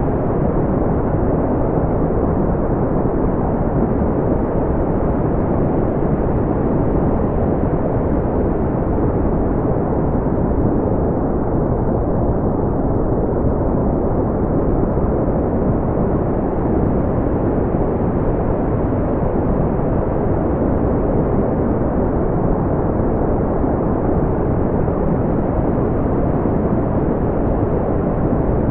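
Brown noise: a steady, deep rumbling hiss with most of its weight in the bass and little above a few thousand hertz, unchanging throughout.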